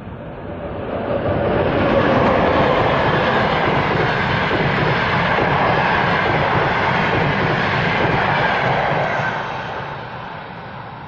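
Passenger train running past on the rails. It grows louder over the first two seconds, holds steady, then fades from about nine seconds in.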